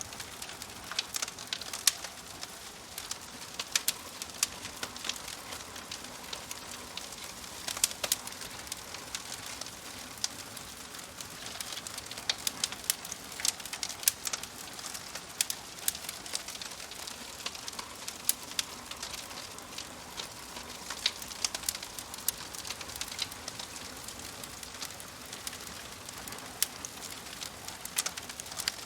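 Wood fire in a wood-burning stove crackling, with frequent sharp irregular pops and snaps over a soft hiss.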